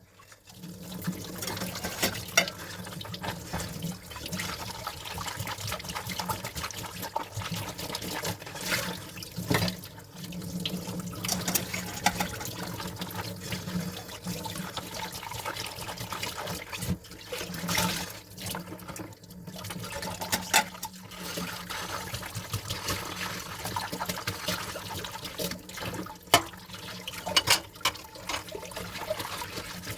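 Tap water running into a sink while dishes are washed, with frequent clinks and knocks of dishes against each other and the sink, a couple of sharper knocks near the end.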